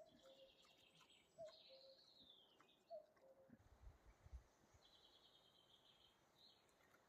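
Faint forest birdsong: one bird repeats a short two-note falling call about every one and a half seconds, three times in the first three seconds, while other birds trill higher up. A few faint low thuds come around four seconds in.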